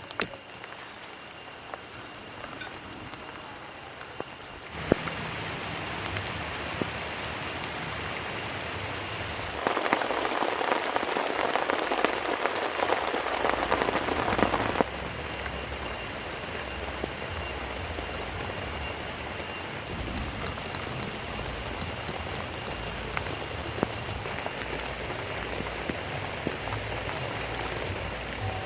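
Steady rain falling, with scattered single drops tapping. It gets louder about five seconds in, heavier still from about ten seconds in, and eases back about five seconds later.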